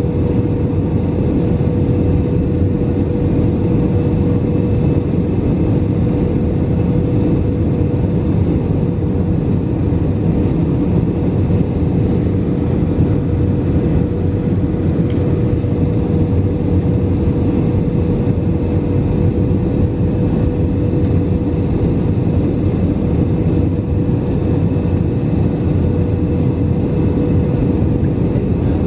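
Airbus A319 cabin noise in flight: the steady, even rush of the jet engines and airflow heard from a window seat, with a constant hum running through it. The noise holds level throughout, with no touchdown or thrust change.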